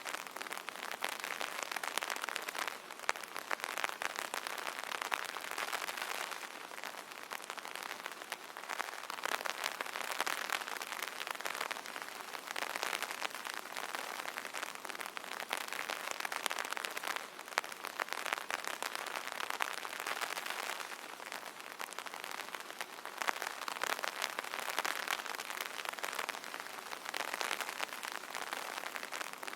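Steady rain pattering on an umbrella canopy: a dense spray of fine drop ticks that swells and eases every few seconds.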